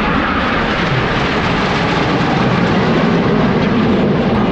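Loud, steady jet engine noise from Aermacchi MB-339 jets of the Frecce Tricolori flying their display.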